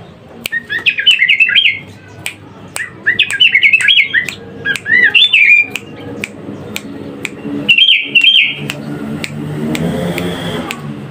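Sooty-headed bulbul (kutilang) singing in four bursts of quick, bubbly warbled notes, with sharp clicks scattered throughout. A low droning hum comes in during the last few seconds.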